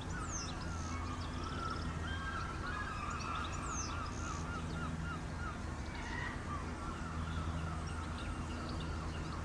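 Birds calling and chirping, with a run of quick repeated notes and scattered short high chirps, over a steady low mechanical hum.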